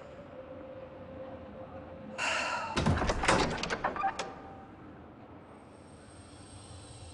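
A door being opened: a short creaking scrape with a clatter of knocks and clicks lasting about two seconds, starting about two seconds in.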